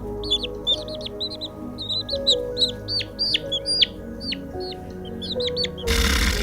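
Birds chirping, a quick run of many short, high, downward-sliding chirps over steady background music. About six seconds in, a loud burst of noise covers them.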